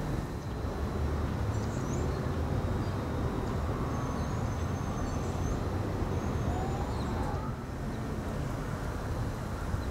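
Outdoor ambience: a steady low rumble with a few faint, short bird chirps high above it.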